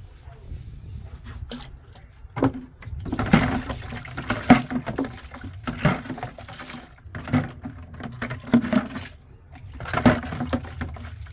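Water splashing and sloshing in irregular bursts, over a low steady hum.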